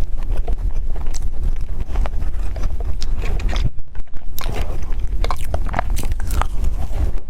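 Close-miked eating sounds: a person biting and chewing food, with many short wet clicks and smacks of the mouth over a steady low hum.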